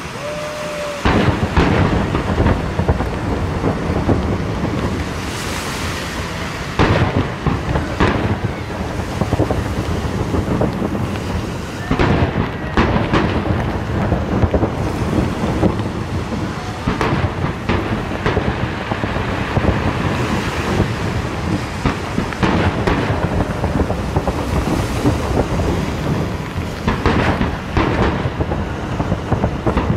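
Aerial firework shells bursting in a dense, continuous barrage: many loud bangs overlapping into a steady rumble, beginning in earnest about a second in.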